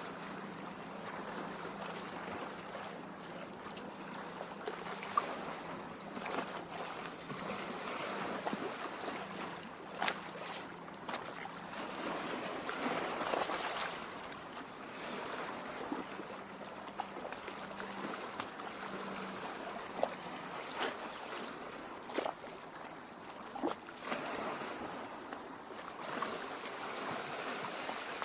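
Small lake waves lapping against the shore and rocks, a steady watery wash with irregular small splashes and gurgles.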